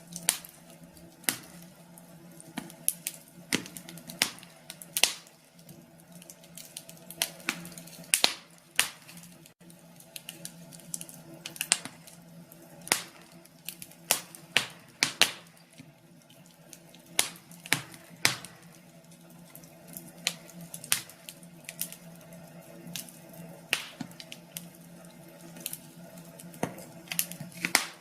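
Wood fire crackling, with irregular sharp pops and snaps, some louder than others, over a steady low hum.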